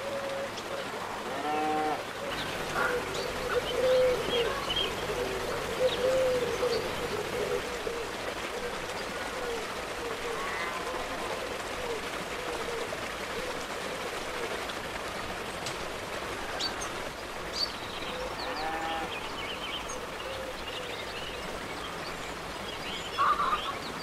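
Birds chirping and calling in scattered short, curving calls over a steady background hiss.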